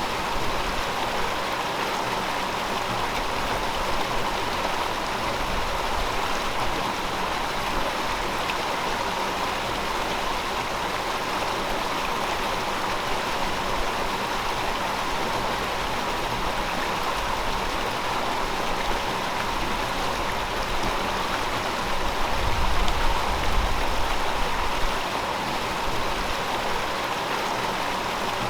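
River water flowing in a steady, even rush. A brief low rumble swells in about three quarters of the way through.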